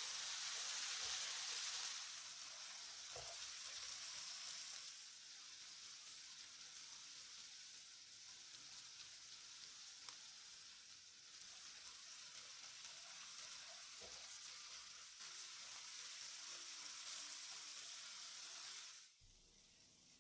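Diced onion, tomato and green chilli sizzling in oil in a frying pan, a steady hiss that cuts off suddenly near the end.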